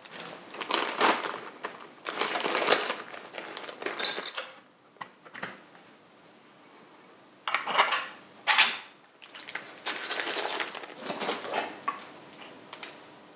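Metal exhaust parts and loose fasteners clinking and clattering as they are handled, in several irregular bursts with short pauses and a few sharp clicks.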